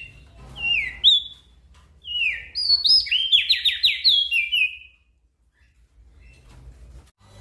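Small songbird singing: a string of short, sharply falling whistled notes, quickening into a rapid run of chirps around the middle, then pausing near the end.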